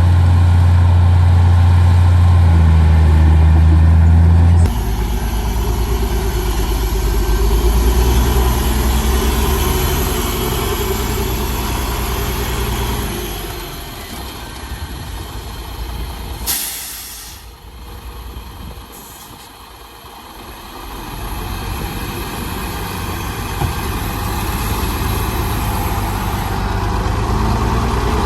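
Heavy diesel engines of earthmoving machinery running steadily. The sound drops away for several seconds in the middle, and about 16 seconds in a short sharp hiss of released air cuts through it, like an air brake, before the engine sound builds back up.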